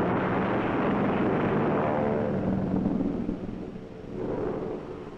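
Propeller aircraft engines running loud on a carrier deck during landing operations, with a steady low hum under a noisy rush that drops away about three seconds in.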